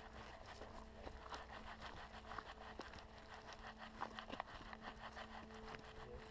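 Footsteps on a hiking trail, an irregular run of faint crunches and taps, over a faint steady hum.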